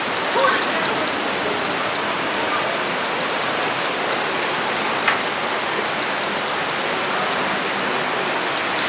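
Steady rush of a small waterfall pouring into a pool, with one sharp click about five seconds in.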